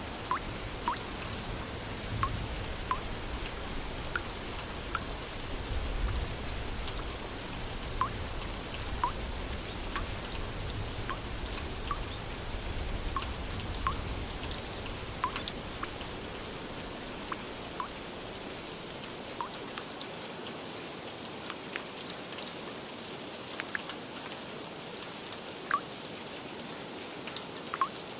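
Steady rain with many distinct drops plinking one by one over the hiss. A low rumble underlies the first part and fades out about two-thirds of the way through.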